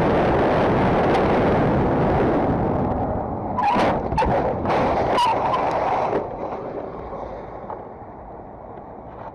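Loud, steady road and wind noise on a dashcam, broken between about three and a half and five and a half seconds in by a cluster of sharp bangs and knocks, a collision. The noise then drops to a quieter rumble.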